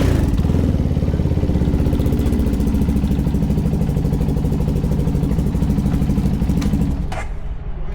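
CFMoto 300SR's single-cylinder engine idling with a steady, fast pulsing beat. The engine sound drops away about seven seconds in.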